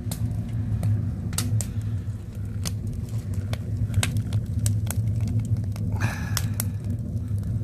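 Wood fire crackling in a stone firebox, with irregular sharp pops and snaps over a steady low rumble.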